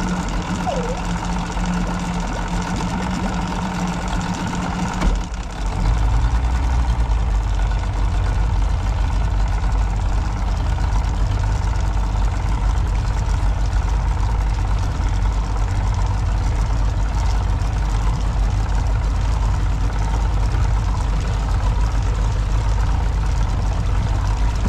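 Engine running steadily. About five seconds in, its note drops deeper and gets louder, then holds steady.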